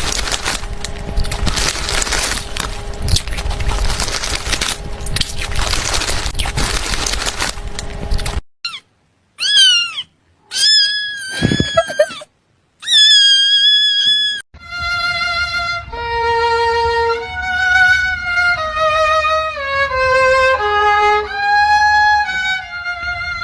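A loud, noisy stretch for about eight seconds, then a few short cat meows with gliding pitch, then a melody of held notes stepping mostly downward.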